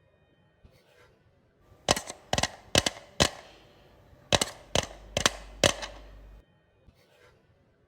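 Eight sharp crisp cracks in two runs of four, about two a second, each followed by a short crackle.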